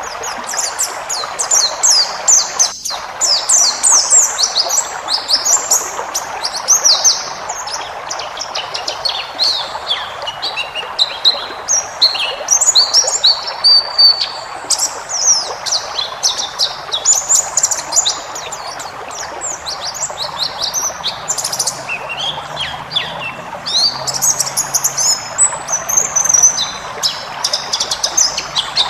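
White-eye (pleci) singing a long, rapid, continuous twittering song packed with varied high chirps and trills, with no real pauses, over a steady background hiss.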